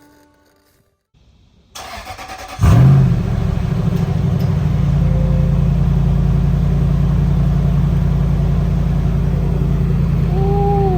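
Lexus GX 470's 4.7-litre V8 cranked by the starter for about a second, catching with a loud burst, then settling into a steady idle.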